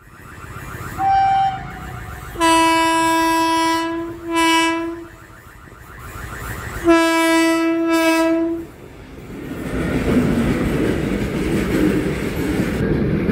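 Electric locomotive horn: a brief toot, then a long blast, a short blast and another long blast. After that come the steady rumble and clatter of freight wagons rolling past on the track.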